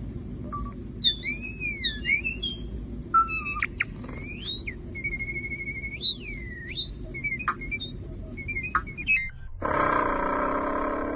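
Bird giving a varied series of whistled calls, with notes that slide and arch up and down in pitch, then a long harsh buzzing call near the end. A low steady rumble runs underneath.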